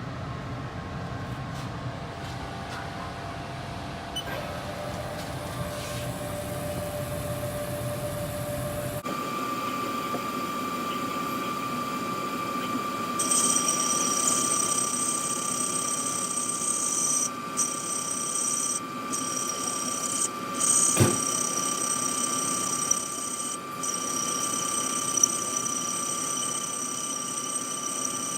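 Metal lathe running, machining out the bore of a -10 AN drain fitting: a steady machine sound with a steady whine. The sound changes abruptly about nine seconds in, and a high-pitched whine sets in a few seconds later, broken briefly a few times.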